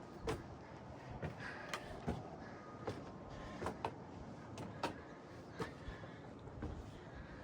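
Footsteps climbing the stairs of an observation tower, a knock at each step, roughly one a second.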